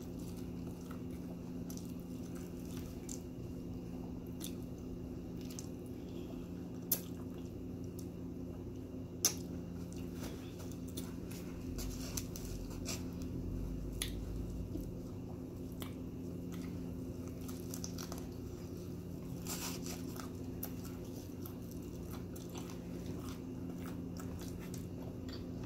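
Close-up eating sounds: chewing and wet, squishy mouth noises while a bacon, egg and sausage McMuffin is picked apart by hand. Two sharp clicks stand out in the first half, over a steady low hum.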